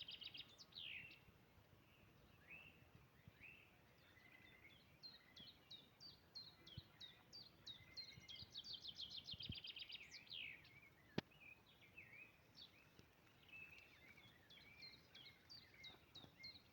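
Songbirds singing faintly outdoors: fast trills of high repeated notes and scattered chirps, overlapping through the whole stretch, with one sharp click about eleven seconds in.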